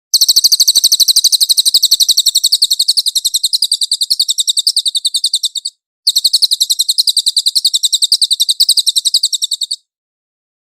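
Cililin songbird singing a long, rapid trill of high, evenly repeated chirps, about ten a second, broken by a short pause roughly six seconds in before a second run.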